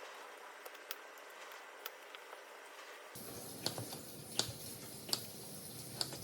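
Scattered light clicks and taps over a faint hiss. About halfway the background becomes fuller and a few louder clicks stand out.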